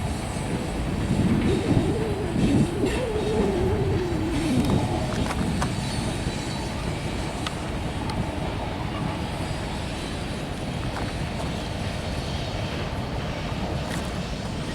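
Norfolk Southern train rolling past with a steady rumble of wheels on rail and scattered clicks. A pitched sound rises and falls over the first few seconds.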